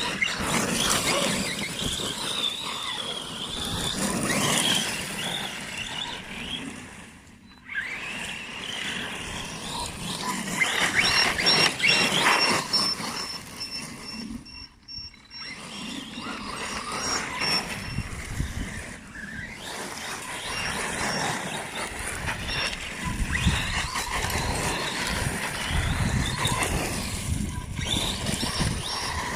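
Arrma Big Rock Crew Cab BLX 3S brushless RC truck driving and drifting: electric motor whine and tyre noise on the ground. The sound breaks off a few times, and a thin high whine holds through the middle.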